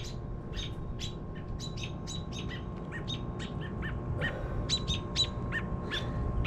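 Small birds chirping: short, sharp high chirps repeated several times a second, over a low steady rumble.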